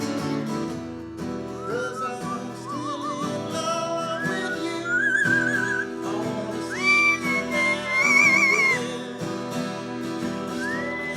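A pet bird whistling along to acoustic guitar music, in gliding and warbling notes, its longest and loudest held whistles about seven to nine seconds in.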